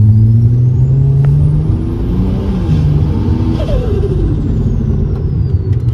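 Single-turbo BMW N54 inline-six accelerating hard, heard from inside the cabin. The engine note climbs, drops at a gear change about two seconds in, then climbs again before easing off.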